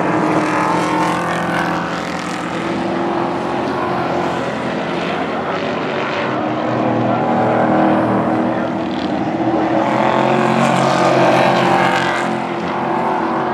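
Pro Trucks racing on a short oval, their engines running hard. The sound swells and fades as the trucks come past, loudest shortly after the start and again about two-thirds of the way through.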